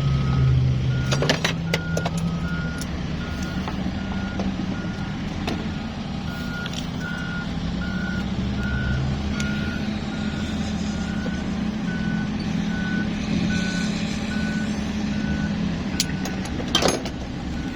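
A vehicle's reversing alarm beeping steadily, about three short beeps every two seconds, over a heavy engine running. A few sharp knocks come about a second in and again near the end.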